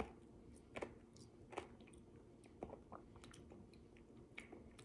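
Near silence broken by a few faint, scattered mouth clicks and small crunches of a person chewing quietly.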